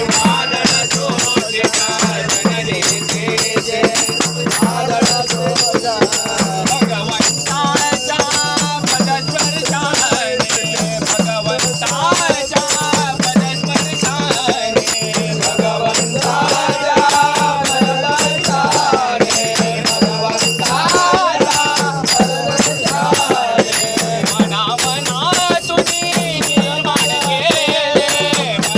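A group singing a Marathi devotional bhajan in raga Bhairavi, a sung melody over a steady low drone and a fast, continuous rattling jingle of hand-held percussion.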